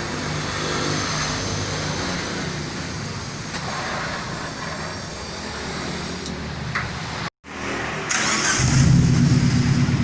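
Pickup truck engine running through an aftermarket exhaust muffler at a steady idle. After a sudden break about seven seconds in, the exhaust comes back louder with a deeper steady note.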